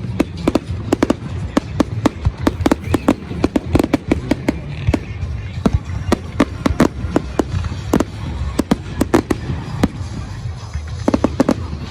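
Fireworks going off at a display: a rapid run of sharp cracks and pops, several a second, over a steady low rumble.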